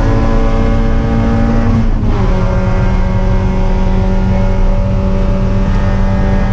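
Spec Miata's four-cylinder engine running hard under load, heard from inside the car. About two seconds in the engine note dips briefly and settles slightly lower, then holds steady.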